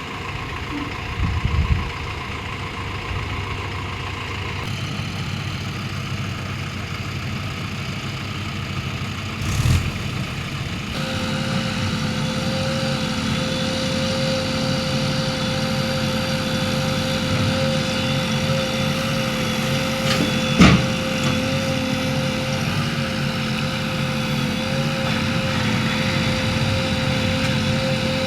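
Diesel engine of a JCB 3DX backhoe loader running steadily, its note changing abruptly twice in the first eleven seconds, with a few short sharp knocks, the loudest about twenty seconds in.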